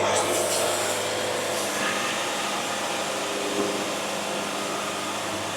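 Band sawmill running steadily, a continuous rushing noise with a low hum underneath, as the mill works through a cut on a cherry log.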